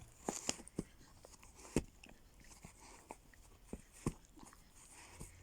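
A puppy chewing and gnawing at something it is tearing apart, giving scattered sharp clicks and snaps, the loudest about two seconds in and again about four seconds in.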